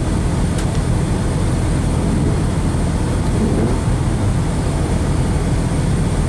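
Rally car engine idling steadily, heard from inside the cockpit as a low, even rumble, with a faint steady high whine over it.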